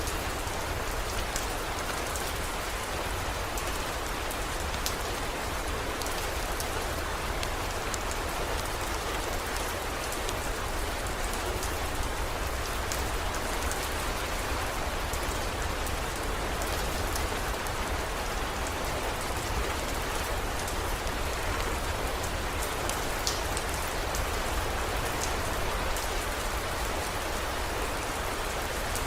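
Steady heavy rain falling, an even hiss with scattered sharp ticks of individual drops and a low steady rumble underneath.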